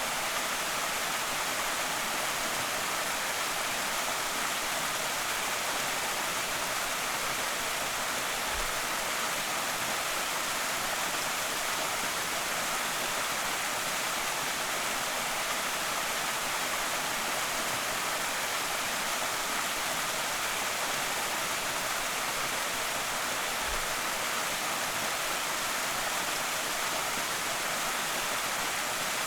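Waterfall on a creek: a steady rush of falling water, even and unchanging.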